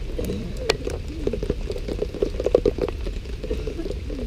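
Heavy rain pattering close to the microphone, an irregular run of drop hits of varying strength, over a low rumble.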